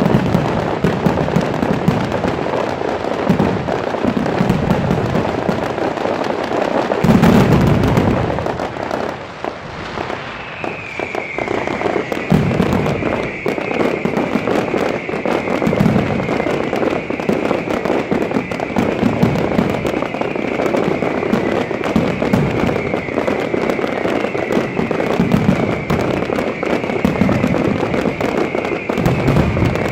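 Fireworks display: deep booms of shells bursting every couple of seconds over a dense, continuous crackle, with an especially big burst about a quarter of the way in. From about a third of the way in, a high whistle that falls in pitch repeats every couple of seconds.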